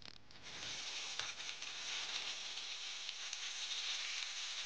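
Pork ribs frying in hot oil: a steady sizzle that starts about half a second in, with a few faint crackles.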